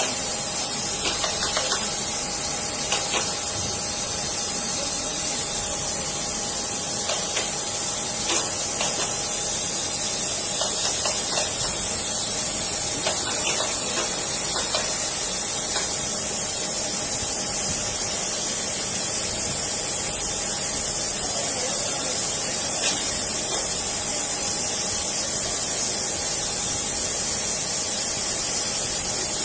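Steady high hiss with a faint steady tone underneath and a few light clicks.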